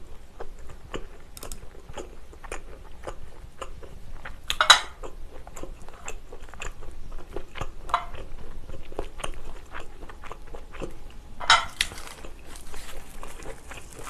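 Close-up chewing of rice and Korean side dishes, with many small wet mouth clicks and a sharper bite or crunch about five seconds in. Near the end, a sheet of dried seaweed (gim) crinkles as it is handled.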